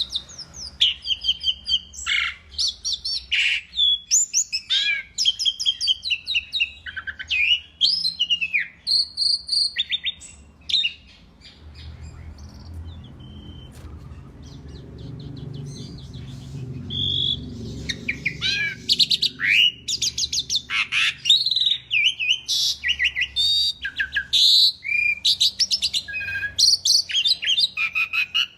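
Asian pied starling singing a long, varied song of fast chirps, whistles and sliding notes, pausing for several seconds about halfway through before starting up again.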